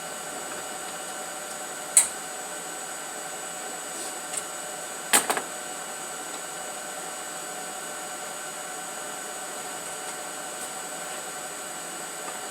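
Steady machine hum, like a fan or air conditioner, with a sharp knock about two seconds in and a quick double knock about five seconds in.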